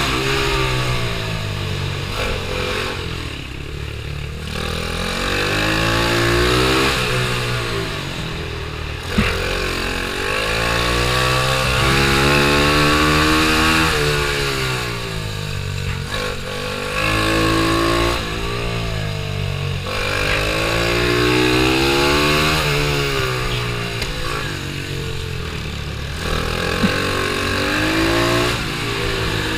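Pit bike's small single-cylinder engine racing on a circuit, its pitch climbing for a second or two under throttle, then dropping off and climbing again over and over as it accelerates out of corners and backs off into the next.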